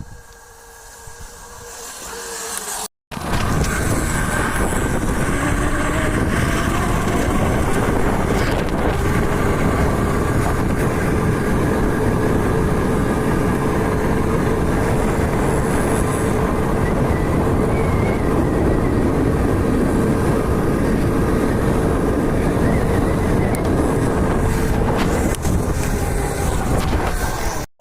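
Small dirt-bike engine: fainter and swelling over the first few seconds, then, after a sudden break, running loud and steady at a high, even pitch, with a second abrupt break at the very end.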